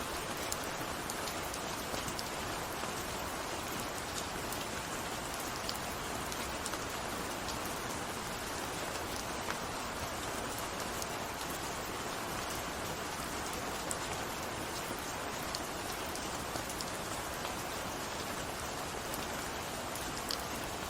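Steady rain falling on a surface, with a dense even hiss and many small scattered drop ticks throughout.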